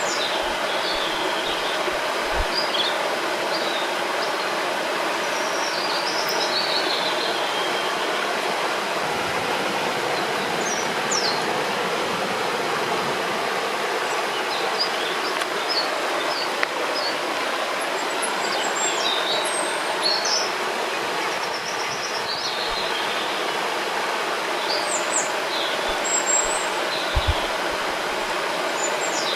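Steady rushing of a river or small waterfall, with songbirds chirping and twittering over it every few seconds.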